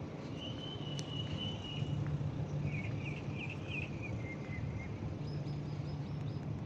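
Outdoor ambience: a held high-pitched note, then a run of quick warbling chirps from a small animal over a steady low rumble.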